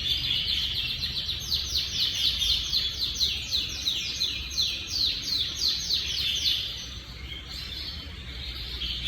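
Timbrado canary singing: a fast run of repeated downward-sweeping notes, about three a second, lasting several seconds, then softer warbling near the end.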